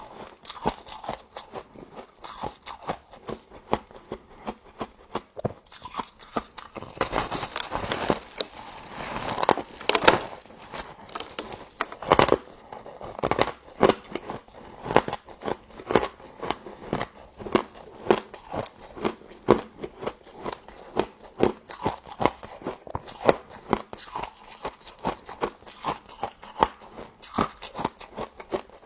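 Close-up mouth sounds of frost being bitten and chewed: a steady run of crunches, about two a second, with a louder, denser stretch of crunching about seven to ten seconds in.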